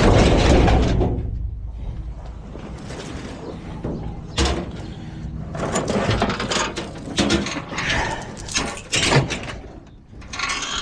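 Junk being handled and moved: a loud scraping rumble in the first second, then scattered clanks, knocks and scrapes.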